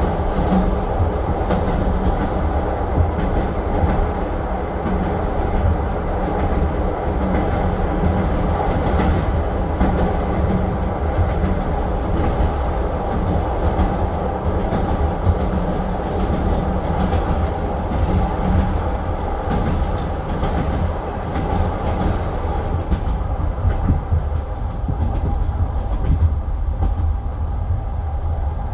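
Train running on rails: a steady rumble with wheels clacking over rail joints. In the last few seconds the high hiss above the rumble dies down.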